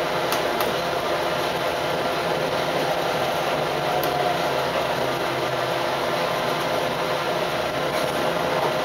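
Cab interior of an Adelaide Metro 3100-class diesel railcar under way at low speed: a steady drone of engine and running noise, with a few faint clicks.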